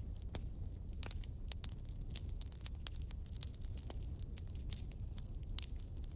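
Campfire crackling: burning wood gives many irregular sharp pops and snaps over a low, steady rumble from the fire.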